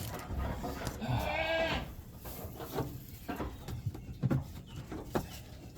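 A goat bleats once, a wavering call of just under a second that rises and falls in pitch. A few soft knocks follow later.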